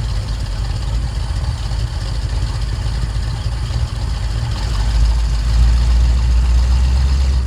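Car engine idling with a deep low rumble, swelling louder in the last few seconds as if the car is drawing closer.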